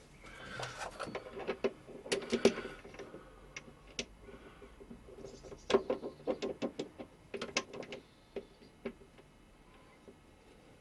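Irregular light metal clicks and knocks in several short clusters, as of small machined parts being handled and tried together for fit.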